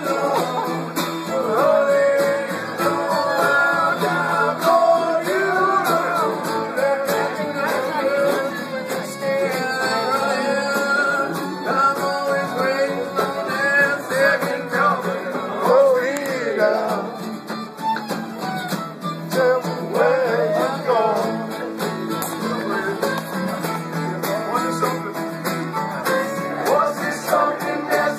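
Live acoustic string band playing a country or bluegrass tune, with plucked guitar and singing.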